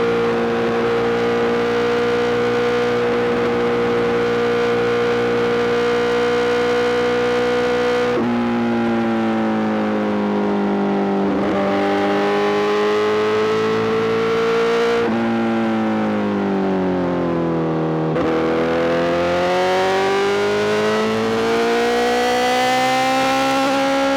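Honda CBR1000RR-R SP's inline-four engine through an Arrow GP full exhaust system, heard while riding. It holds a steady note, then eases off with the pitch sinking slowly and jumping up twice as it comes down the gears. Near the end it rises again under acceleration.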